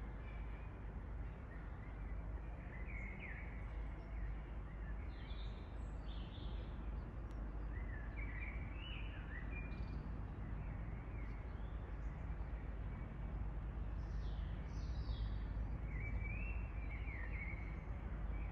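Birds chirping and singing in short phrases every second or two, over a steady low rumble of background noise that grows slightly louder in the second half.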